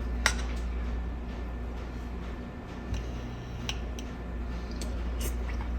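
A few light clicks and taps over a steady low hum, the sharpest click just after the start.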